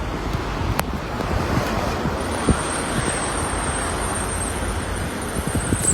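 Steady rushing wind on the microphone. A faint, thin, high-pitched whine comes in about two seconds in.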